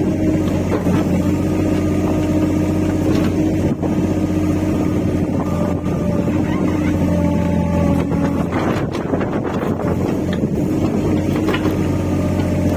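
Rippa R15 mini excavator's engine running steadily, its pitch shifting now and then as the hydraulics take load, with a few short knocks.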